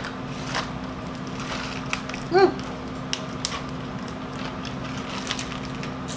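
Doritos Dinamita tortilla chips being chewed close to the microphone: scattered crisp crunches.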